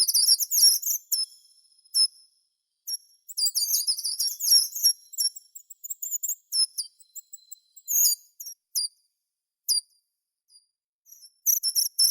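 Songbird singing: bursts of fast, very high-pitched trilled phrases and single chirps, separated by pauses of a second or more.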